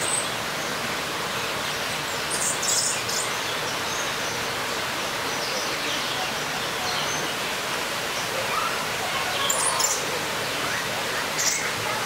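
Short, high-pitched bird chirps come out of a steady rushing background noise: a cluster a couple of seconds in, another about ten seconds in, and one more near the end.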